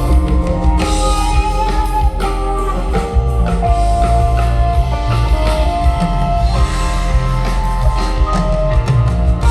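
Live rock band jamming: electric guitar lines and sustained notes over bass and a steadily played drum kit.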